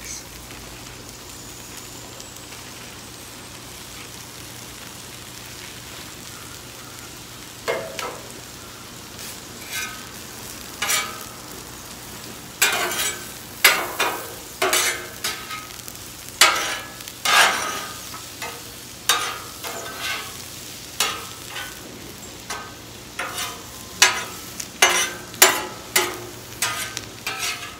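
Onions and mushrooms sizzling steadily on a hot flat-top griddle. From about eight seconds in, a spatula repeatedly scrapes and clacks against the griddle as it stirs and turns the vegetables.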